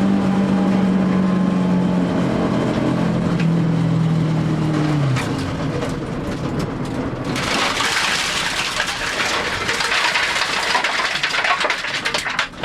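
A Honda ZC four-cylinder engine on Solex carburettors, its note falling steadily in pitch and then cutting out abruptly about five seconds in. After that comes a loud, harsh rushing noise full of sharp cracks and rattles.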